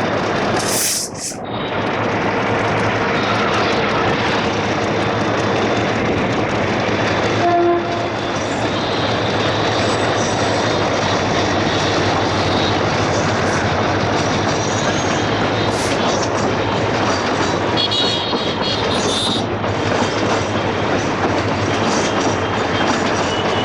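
Freight train rolling past at speed, the wheels of its wagons rumbling and clattering steadily over the track. A short tone sounds about seven and a half seconds in, and high squealing tones come near the end.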